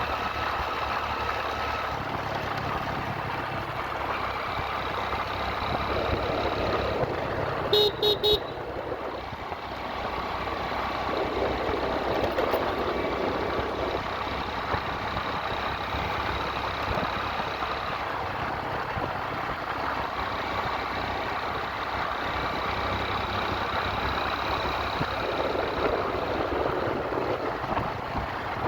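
Motorcycle engine running steadily while riding, with road and wind noise. About eight seconds in, a horn gives three short toots.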